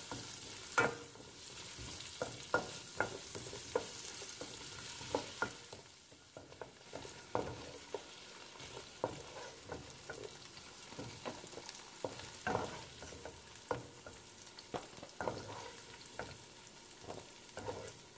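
Potato and carrot chunks sizzling in oil as a wooden spoon stirs them, with irregular knocks and scrapes of the spoon against the pan. The sizzle is stronger for the first five seconds or so, then eases off.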